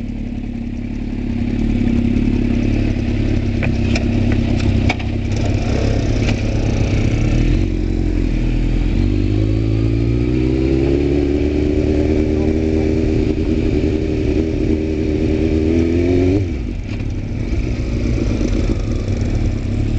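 Motorcycle engine running. About halfway in, its pitch climbs steadily as it accelerates, then falls away suddenly a few seconds before the end, as if the throttle is closed.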